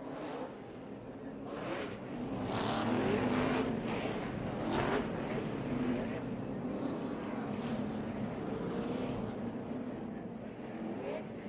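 Several sprint car engines running on track, their pitch rising and falling as the cars pass one after another, loudest about three to five seconds in.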